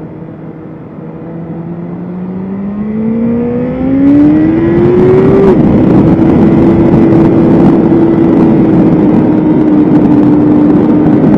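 BMW S1000RR's inline-four engine accelerating, its note climbing steadily, then dropping sharply at an upshift about five seconds in. After the shift it runs loud and nearly steady at high revs under a rush of wind noise, easing slightly near the end.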